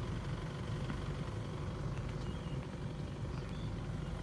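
Steady low rumble of a vehicle on the move, even throughout with no changes in pitch or loudness.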